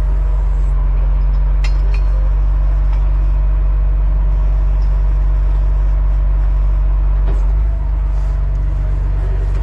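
Heavy tow truck's diesel engine running steadily with a deep drone and a faint whine above it, its note shifting slightly near the end; a couple of light clicks about two seconds in.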